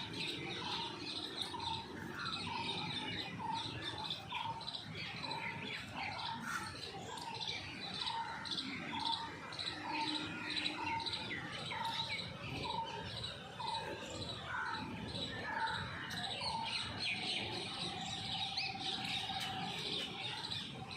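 Several birds calling and chirping together. One short call repeats about twice a second under a busy mix of higher chirps.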